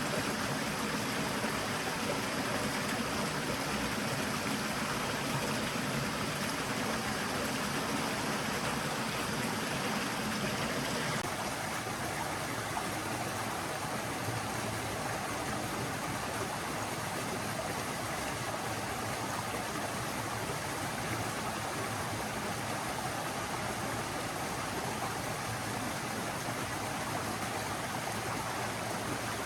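Forest stream flowing steadily, a continuous rush of water. About eleven seconds in the sound changes abruptly and becomes slightly quieter, as if from a different spot along the water.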